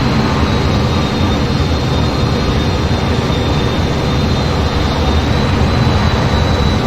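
F-15 jet engines running steadily: a constant heavy rumble with a thin, steady high whine above it.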